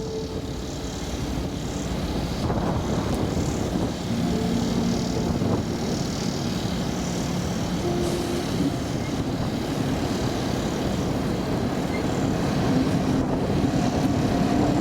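A lash-up of diesel-electric locomotives (two EMD SD70Ms, the GE AC44 6706 and a GE Evolution unit) running with a steady engine drone. A few held tones come and go over the drone, which grows slightly louder.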